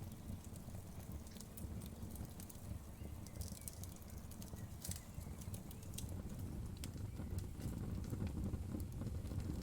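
Wood fire crackling: a steady low rumble of burning wood with scattered sharp pops and crackles, a few louder ones between about three and a half and five seconds in.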